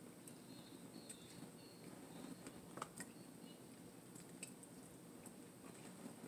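Near silence with faint chewing and a few soft clicks of someone eating fried chicken.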